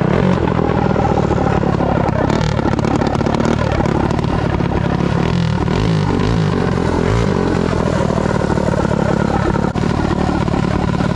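Minibike engine running hard under throttle as the bike is ridden, its pitch wavering up and down with the throttle.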